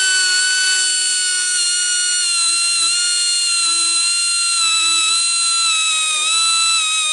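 Air grinder running at a steady high whine, its pitch sagging slightly now and then as it is ridden along the back of a band-saw blade tooth to sharpen the dull blade.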